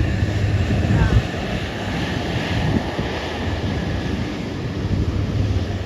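Wind buffeting the microphone in irregular gusts, a loud low rumble.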